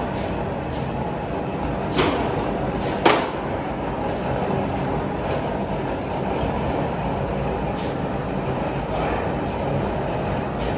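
Steady low rushing roar, typical of a gas forge's burner running, with two sharp metallic clinks about two and three seconds in.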